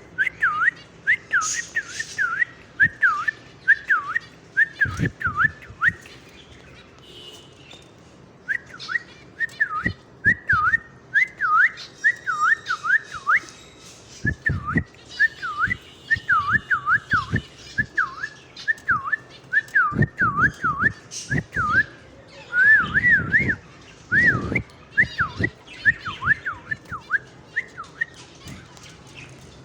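Pet cockatiels whistling: a long string of quick up-and-down swooping notes, a few a second, with a pause about six seconds in. Occasional low thumps sound under the whistling.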